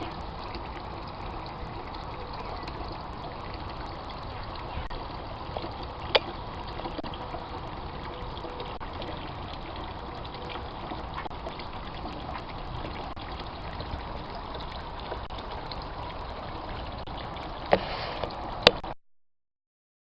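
Water trickling steadily, with a few sharp clicks near the end. It cuts off suddenly about a second before the end.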